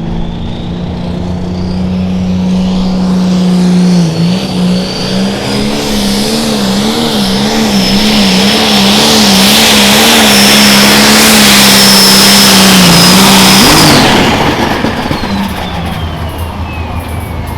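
Turbocharged diesel engine of a 4.1 Limited Pro Stock pulling tractor at full throttle during a pull. A high turbo whistle climbs over the first several seconds and holds, while the engine note wavers. About fourteen seconds in, the throttle is let off and the turbo whine winds down.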